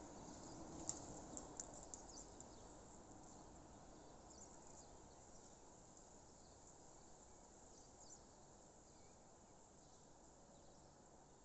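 Faint outdoor nature ambience: a low steady hiss with scattered short high chirps, thickest in the first couple of seconds, then sparser as the whole sound slowly fades.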